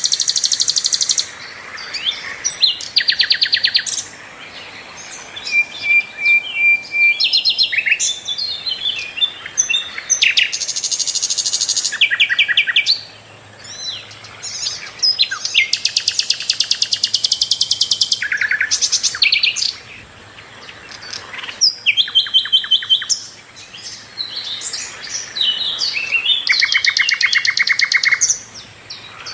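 Sikatan londo, a small songbird flycatcher, singing loudly and continuously: bursts of fast, high rattling trills of rapidly repeated notes, mixed with short chirps and a brief steady whistle, with only short pauses between phrases.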